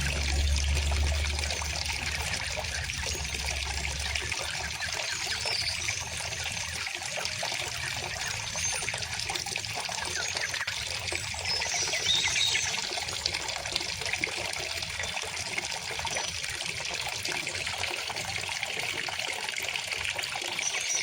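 A small river flowing steadily over stones, a continuous trickling, babbling rush, with a few faint high bird chirps now and then and a low rumble that fades after about four seconds.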